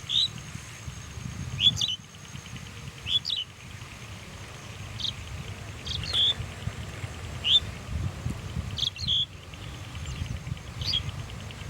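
A bird giving short, high chirps, about eight of them spaced one to two seconds apart, over a low background rumble.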